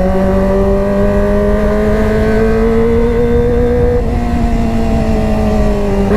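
Kawasaki ZX-25R's four-cylinder engine running at high, held revs through a GP Tech Zeus Short aftermarket exhaust. The pitch climbs slowly for about four seconds, then holds, with a brief sharp break in the note at the very end.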